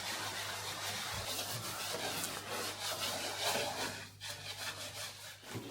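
Repeated rubbing and scraping strokes on a boat hull, as ice and water are cleared from the surface. A brief pause comes a little after four seconds.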